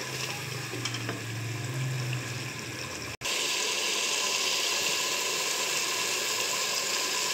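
Taro root curry bubbling in a pot with a low hum underneath. About three seconds in, after a cut, it changes to a steady, louder sizzle as the masala is fried down and stirred with a wooden spatula.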